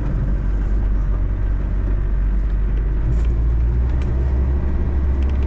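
Land Rover Defender's turbodiesel engine running under way, a steady low drone heard from inside the vehicle, its note shifting about three seconds in.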